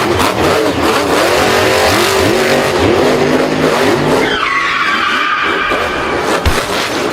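Monster-truck engines revving up and down over one another, with tyres skidding. About four seconds in, a high whine falls and then holds for a couple of seconds, and a short thump comes near the end.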